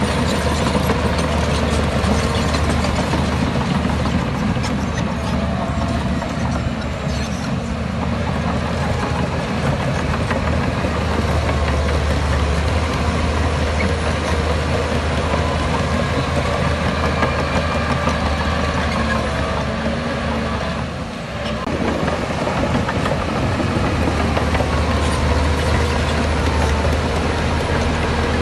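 Heavy diesel engine of earthmoving machinery running steadily under load, with a brief dip in level about three quarters of the way through.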